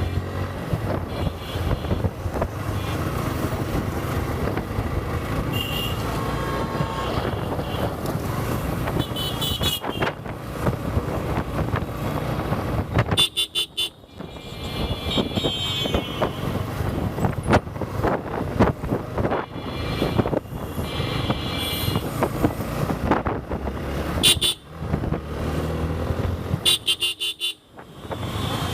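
Road and engine noise of riding a motorcycle through traffic, with vehicle horns tooting several times.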